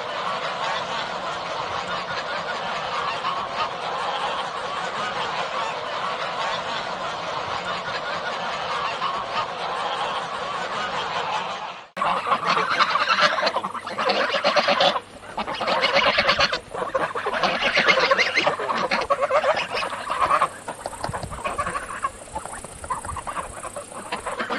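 Geese honking: first a dense, continuous chorus from a flock, then, after a sudden cut about halfway through, closer and louder bouts of honking with short pauses between them.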